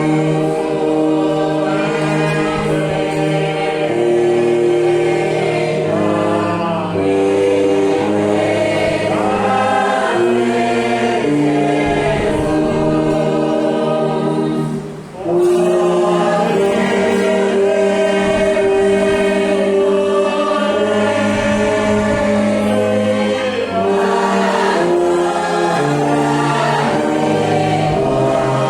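A congregation sings a hymn with orchestral accompaniment: slow held chords that change about every second, with a brief break between phrases about fifteen seconds in.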